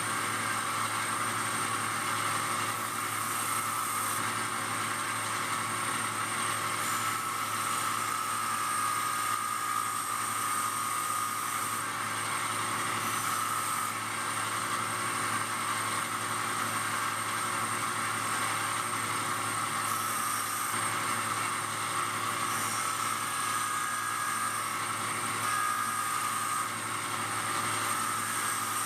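Belt grinder running steadily, with small shifts in the grinding pitch every few seconds.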